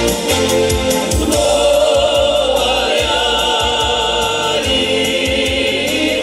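A song performed with voices over a band accompaniment with a steady drumbeat; the singing comes in strongly about a second in.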